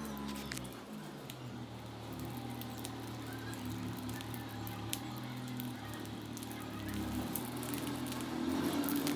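A pet green parrot nibbling at its food: faint, irregular small clicks and taps over a steady low hum.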